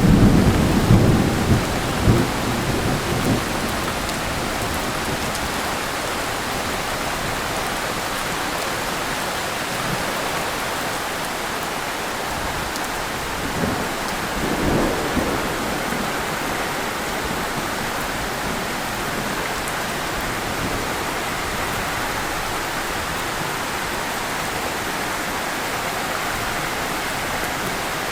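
Heavy rain falling steadily, with a roll of thunder dying away over the first few seconds and a shorter low rumble about halfway through.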